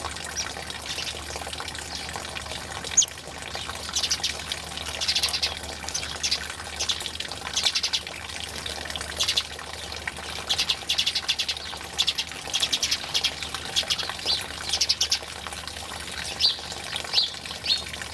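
Birds chirping and calling in many short, quick bursts over a steady rush of running water.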